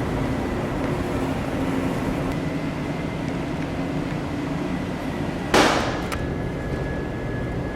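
Steady drone of a car ferry's engines and machinery under way, with a low hum and a faint high steady tone. About five and a half seconds in, a short loud burst of noise cuts in, followed by a click.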